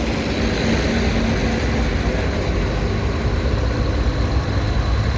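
Vintage tractor engines running steadily, a low rhythmic engine rumble.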